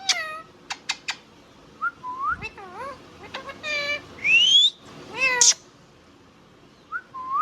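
Indian ringneck parakeet calling: a string of short pitched squawks and whistles that bend up and down, with a few sharp clicks about a second in and a rising whistle about four seconds in. A brief pause comes before one more call near the end.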